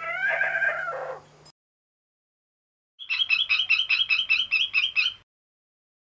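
Bird calls: a wavering call that bends up and down in pitch and ends about a second and a half in. After a short silence comes a fast run of sharp, high repeated notes, about seven a second, lasting some two seconds.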